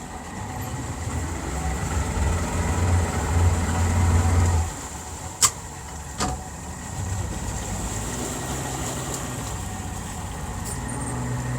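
Boat engine running at low speed, louder for a few seconds and then easing back, with two sharp knocks in the middle.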